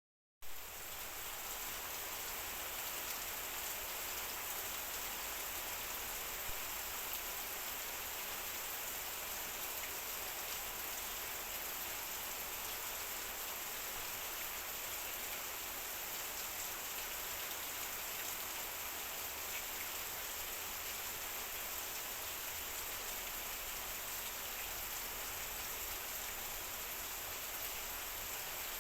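Heavy rain falling steadily on a metal roof, a dense even hiss with scattered faint drop ticks, starting suddenly about half a second in.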